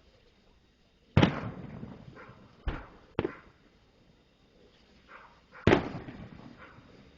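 Aerial fireworks exploding: four sharp bangs. The first and last are the loudest and are followed by a rumbling echo.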